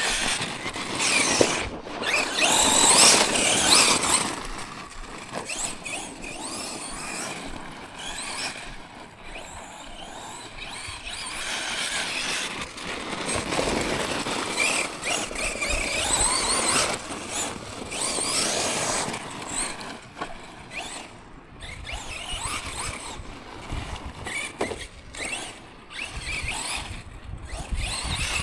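Tekno MT410 2.0 1/10 electric RC monster truck driving: the motor and drivetrain give a high whine that rises and falls in surges with the throttle, over the tyres on rough ground.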